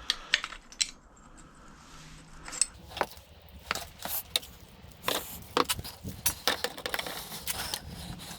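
Irregular light metallic clinks and clicks of tools and small metal parts being handled during the hydraulic jack's disassembly, with a few sharp knocks near the start and busier clinking from about three seconds in.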